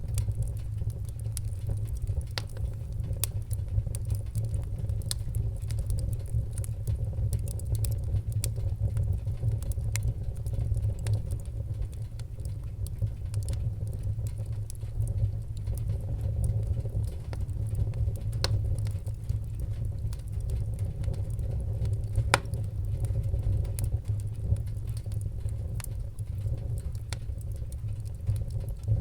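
Fireplace fire crackling: a steady low rumble of flame with a constant scatter of small sharp crackles and an occasional louder pop.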